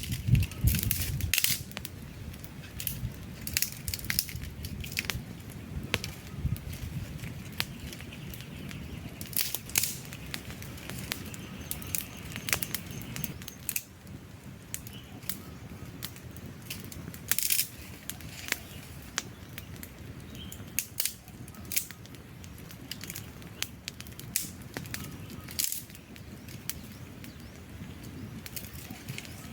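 Wood fire burning, logs crackling and popping irregularly over a low steady rumble of the flames.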